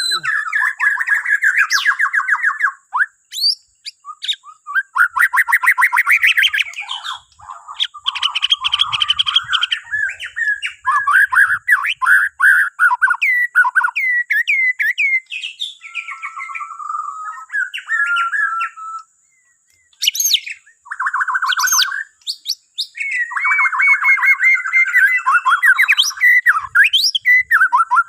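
White-rumped shama of the Borneo race singing loudly: a varied run of fast trills, rattles and sweeping whistles, with a pause of about a second roughly two-thirds of the way through.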